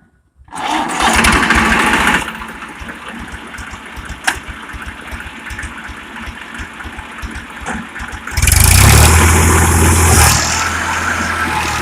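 Massey Ferguson 5245's three-cylinder diesel engine running with an even, fast knock. About eight seconds in it revs up sharply and gets much louder as the tractor pulls away.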